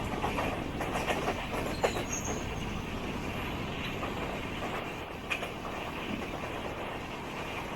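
Running noise of a passenger train with LHB coaches, the wheels rumbling steadily on the track, with a few sharp clicks, the loudest about two seconds in and another about five seconds in.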